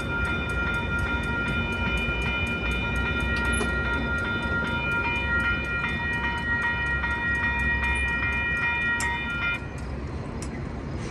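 Metra commuter train rumbling past, with a steady set of high ringing tones and a quick regular ticking, about four a second, over the rumble. The tones stop about nine and a half seconds in, leaving the rumble a little quieter.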